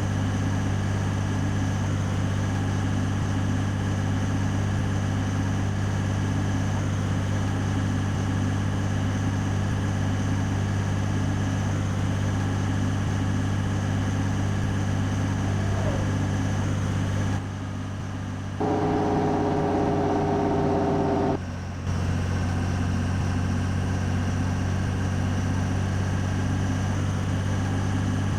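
Scania 113 truck's 11-litre six-cylinder diesel running steadily, a continuous low drone. About two-thirds of the way in the drone briefly drops away, and for about three seconds a sound of several steady held tones is heard before the engine sound returns.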